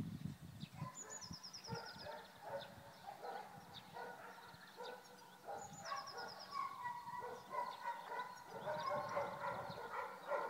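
Outdoor birdsong: a high, rapid trill sung twice, about five seconds apart, over a mix of lower animal calls.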